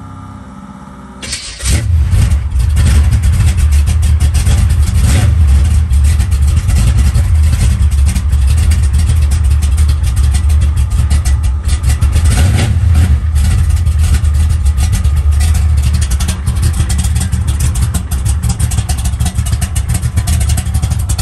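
Car engine with newly fitted exhaust cutouts, cold-started: it fires about a second and a half in and then runs loud with a deep, steady exhaust rumble and a couple of brief swells.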